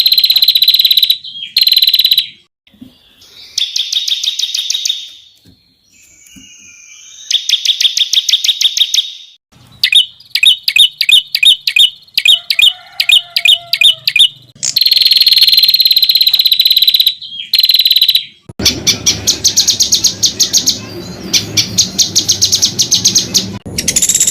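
Songbird song for tutoring competition birds: loud, high-pitched, rapid-fire trills of quickly repeated notes, the sharp 'tembakan' phrases, alternating with long held whistles. The phrases are spliced together with abrupt cuts. A low rumble of background noise comes in under the trills near the end.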